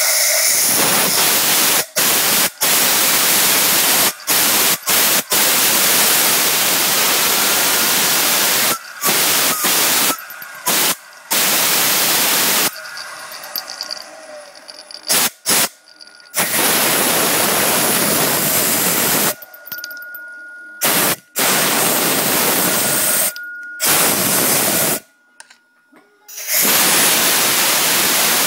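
Worn Garrett GT1752 turbocharger on a Saab 9-3 making a loud hissing rush with a faint high whistle at times, a sign of the badly failed turbo. The sound cuts off abruptly into near silence several times and then returns.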